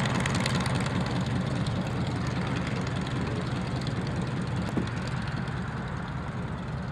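Aircraft engine running with a steady low drone that slowly fades, with a brief click about five seconds in.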